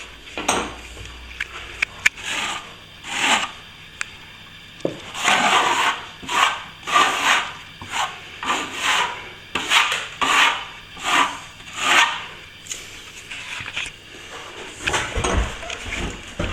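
A hand tool scraping and rubbing over plaster in repeated short strokes, about one to two a second, with a longer stroke about five seconds in.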